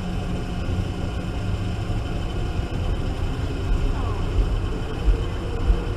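Denver Airport's automated train running, a steady low rumble heard from inside the car as it pulls away, with a faint rising whine about two-thirds of the way through.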